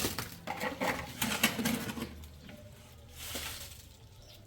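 A quick run of sharp clinks and knocks of hard objects, like dishes or metal being handled, over the first two seconds, then quieter.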